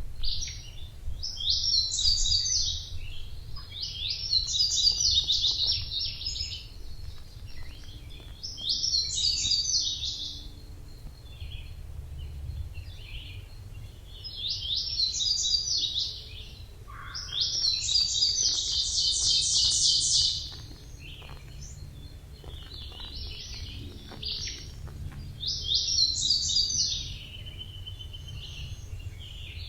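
A songbird singing high, rapid, trilled phrases of one to three seconds, repeated every few seconds, with one longer phrase past the middle. A steady low rumble runs underneath.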